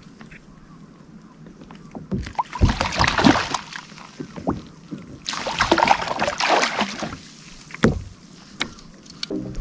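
Handling noise aboard a plastic fishing kayak: two stretches of rustling, splashy knocking, then a few single sharp knocks near the end.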